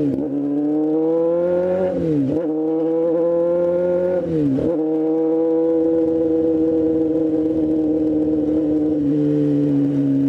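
Motorcycle engine pulling through the gears: the revs climb and drop sharply at each upshift, three times in the first five seconds, then settle to a steady cruise.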